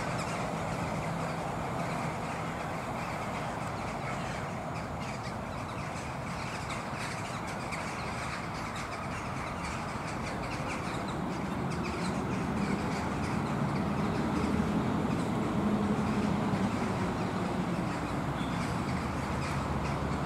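A vehicle running, with a steady rushing noise and a low hum that rises and then falls in pitch in the second half.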